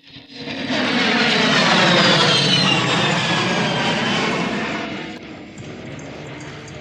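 A-10 Thunderbolt II jet passing at high speed, its twin turbofan engines swelling in within the first second. A high whine slides down in pitch as it goes by, and after about five seconds it drops to a lower, steadier rumble.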